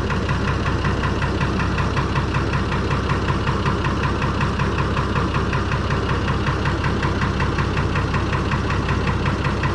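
Six-cylinder Perkins diesel engine in a Fordson Major tractor running steadily with an even beat, holding one speed throughout.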